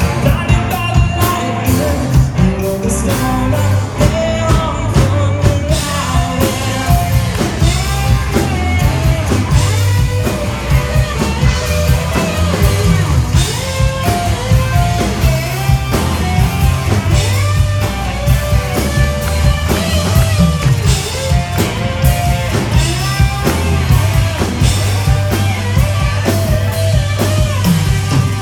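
Live yacht-rock cover band playing a song, with a lead singer over a full band and a steady drum-kit beat.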